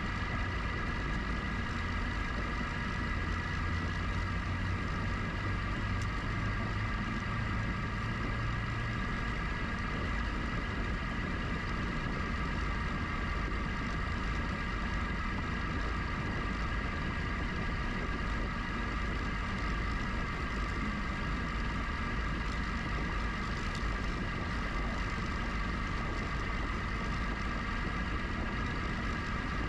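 Riding noise from a GoCycle GX electric bike at a steady speed: wind buffeting the camera microphone and tyres rolling, with a steady high whine. A deeper hum sits under it for the first nine seconds or so, then fades.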